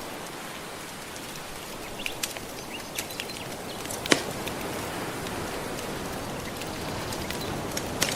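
Steady wash of soft ocean waves with a wood fire crackling over it: scattered sharp pops, the loudest about four seconds in.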